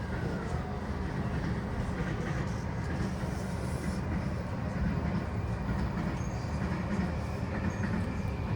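Yokosuka Line E235-1000 electric train running, heard from inside the motor car: a steady low rumble of wheels and running gear with the faint tones of its Mitsubishi full-SiC MOSFET VVVF inverter and traction motors.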